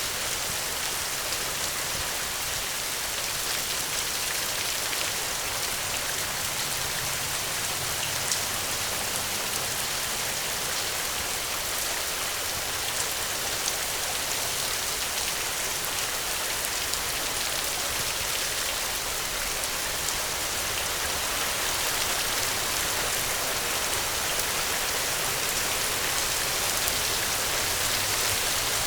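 Steady rain falling, with many fine individual drops pattering on a surface.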